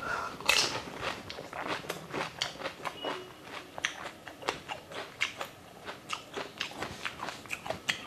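A person biting into a whole fuchka (pani puri) and chewing it, the crisp fried shell cracking with a sharp crunch about half a second in, then a run of irregular crunching chews.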